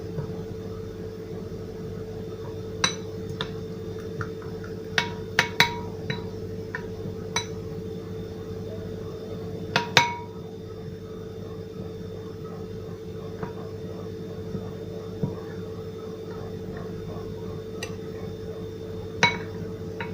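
A spoon clinking against a dish now and then while a garlic, lemon juice and olive oil marinade is stirred, about a dozen irregular clinks with the loudest about halfway through and near the end, over a steady hum.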